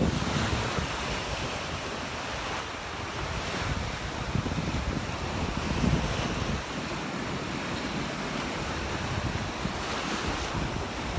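Surf breaking and washing up the beach, with wind buffeting the phone's microphone in gusts.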